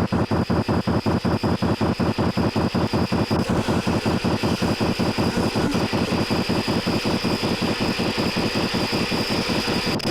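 Live band playing a loud, distorted, fast pulsing chug of about seven beats a second, with a steady high whine over it; it cuts off abruptly near the end.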